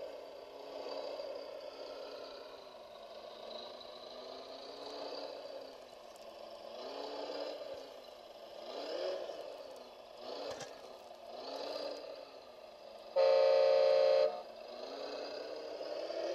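Electric motors of radio-controlled construction models whirring, their pitch rising and falling over and over as the machines start, stop and change speed. Near the end comes one loud horn blast of about a second.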